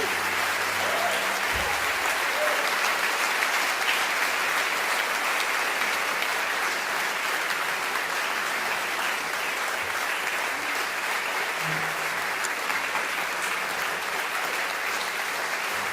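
Live audience applauding steadily after a spoken word performance, with a few faint cheers.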